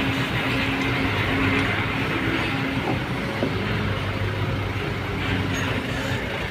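A large vehicle running: a steady rumble with a low engine hum and a higher tone that comes and goes.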